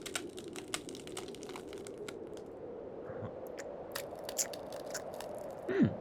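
Crunching, crackling sound effect: a run of small irregular snaps and crackles, with a short tone that falls sharply in pitch near the end.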